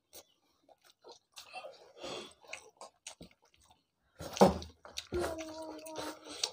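Close-up chewing and lip-smacking of people eating rice, hakka noodles and curry with their hands, in small wet clicks and smacks. Near the end a voice holds one steady note for about a second.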